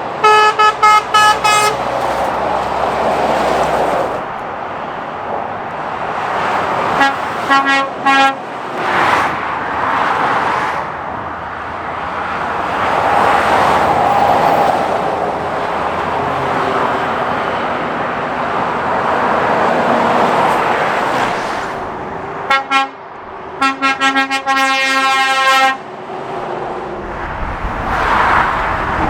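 Lorries passing at speed on a dual carriageway, their engines and tyres making steady traffic noise, with horns tooted in several quick series: a run of short blasts at the start, a few more around eight seconds in, and a longer series of blasts near the end.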